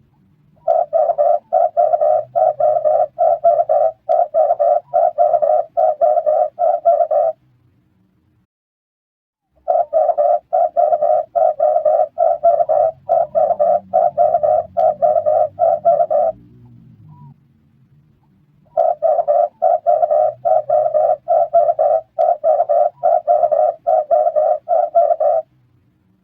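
Red turtle dove cooing: three long runs of rapid, evenly repeated notes, each run about six seconds, with pauses of two to three seconds between runs.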